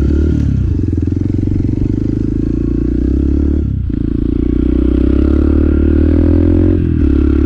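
Motorcycle engine running under way, its note cutting out briefly twice, like gear changes, with the pitch climbing slowly after the first break.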